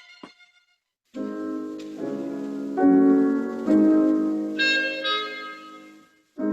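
Classical piano playing slow, sustained chords, starting about a second in after a short pause and fading away near the end.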